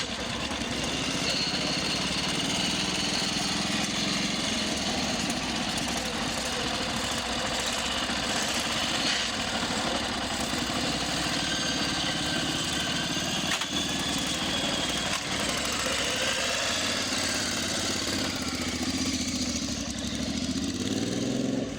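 Old Italian motorcycle engine running at a steady idle, then rising in pitch near the end as it is revved.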